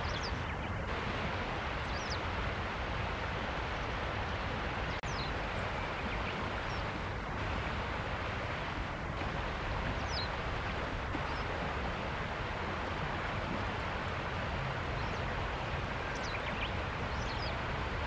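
Black-faced bunting giving short, thin, high call notes, about ten of them scattered through, over a steady rushing background noise.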